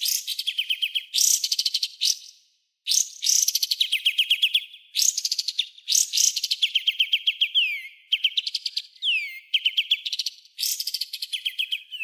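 Recorded songbird song of the kind used to train cage birds: repeated bursts of very rapid, sharp, rasping notes, each about a second long, ending in a faster trill and now and then a sweeping note, with short gaps between bursts.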